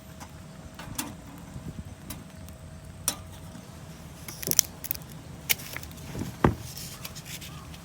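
Camp cookware and tableware being handled: a string of scattered clinks and knocks, the sharpest in the middle and later part.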